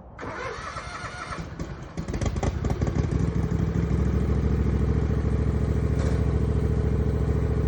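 A few seconds of clatter, then an engine comes in about two seconds in, getting louder and running steadily and loud from about four seconds in as a machine works to pull a stuck mower from mud.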